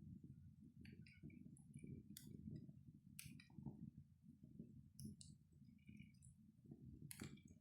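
Faint crackling of a wood fire in a fireplace: scattered sharp pops and small ticks over a low rumble.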